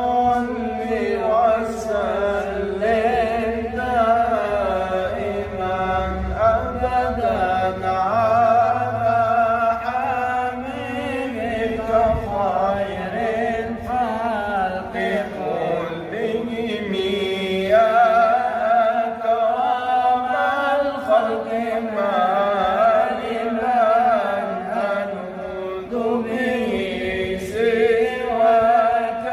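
A man's voice chanting an Islamic devotional ode (inshad) in long, drawn-out melismatic phrases, the pitch wavering and ornamented on each held note.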